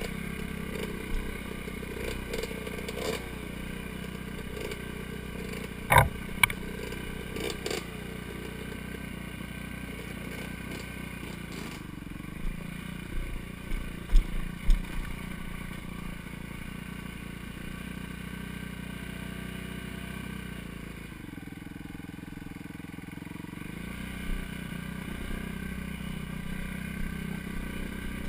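Dirt bike engine running steadily as the bike is ridden along a trail. Sharp knocks and clatter come about six seconds in and again around fourteen seconds in.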